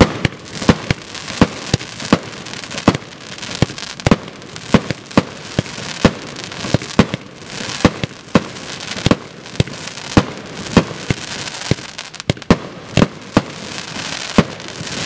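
Consumer fireworks cake firing a rapid series of shots, about two to three a second and unevenly spaced, with a steady hiss between the bangs.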